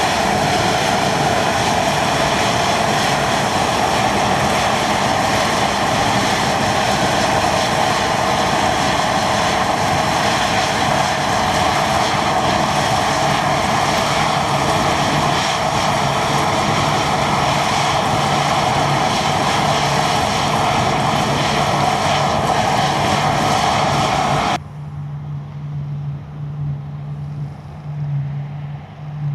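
Deutz-Fahr Topliner 4090 HTS combine harvester running while cutting barley: a loud, steady mechanical drone with a constant whine layered over it. About 24 seconds in it cuts off suddenly, leaving a quieter, steady low engine hum.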